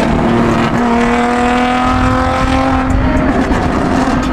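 Car engine held at high revs, its pitch climbing slowly from about a second in and dropping away near three seconds, over a heavy exhaust rumble.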